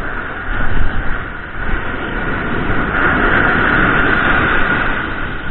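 Steady rushing noise with uneven low rumbling, typical of wind buffeting the action camera's microphone over the sound of surf; the noise swells a little around the middle.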